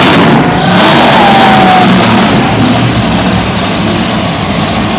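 High-horsepower truck engine running loud at high revs during a wheelie run.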